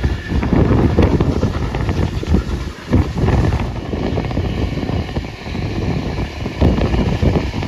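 Wind buffeting a microphone held out of an open carriage window, over the rolling noise of a train moving at speed behind steam locomotive 3801. The level rises and falls unevenly throughout.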